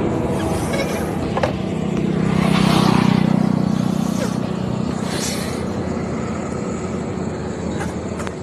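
A motor vehicle passing close by: its engine swells about two to three seconds in and then fades, over steady outdoor road noise.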